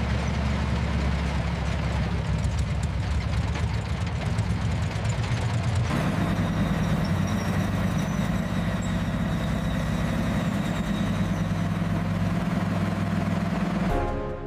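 Heavy vehicle engine idling, a steady low rumble whose pitch and pattern shift about six seconds in.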